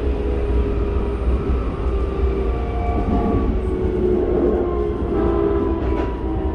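Keikyu 1000 series electric train heard from inside the car while running: a steady low rumble from wheels and track, with several thin whining tones from its Toyo IGBT-VVVF inverter and traction motors drifting slowly in pitch. A single click comes about six seconds in.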